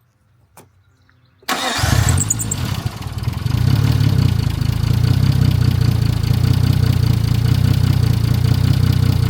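Freshly rebuilt Nissan RB25DET turbocharged straight-six catching about a second and a half in after near silence, then running steadily at idle on a base tune.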